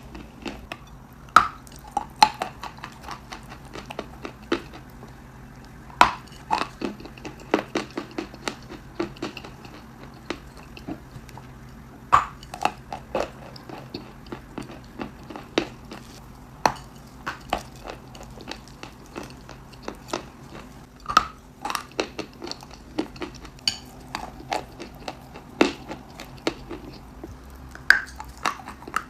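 A person biting and crunching hard, brittle material with the mouth close to the microphone: many small irregular crunches, with a sharper, louder bite every few seconds.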